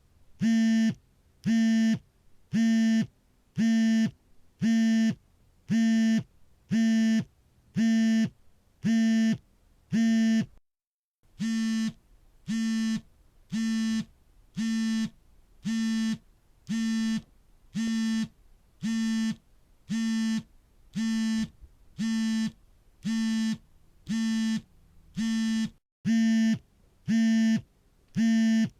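Mobile phone's vibration motor buzzing in short, even pulses, about one a second, each a steady low buzz with a rattly edge, as on an incoming call. The pattern breaks off briefly about eleven seconds in.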